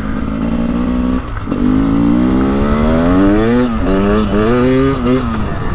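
Dual-spark-plug 300 cc two-stroke engine of a 2024 Beta 300 Race Edition dirt bike running under throttle. It holds a steady note for about a second, dips, then its pitch climbs for about two seconds, drops and rises again in short pulls before falling off near the end.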